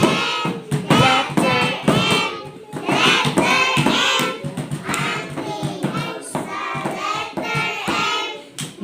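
Children singing a letter-sound phonics song together, in a steady rhythm.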